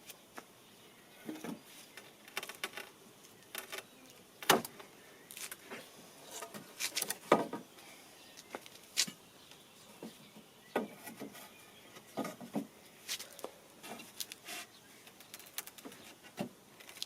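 Irregular light clicks, knocks and rustles, the sharpest about four and a half and seven seconds in.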